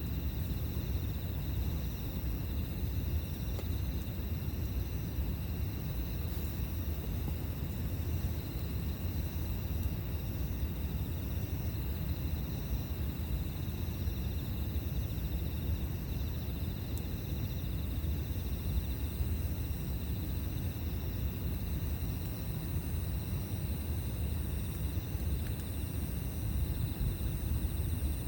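Insects, crickets or similar, trilling steadily at several high pitches, one more high trill joining partway through, over a steady low rumble.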